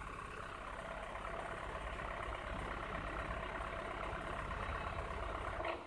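2007 BMW X3 engine idling steadily, its electronic throttle motor not responding after a throttle fault code has just set. Near the end there is a click and the engine sound cuts off as the ignition is switched off.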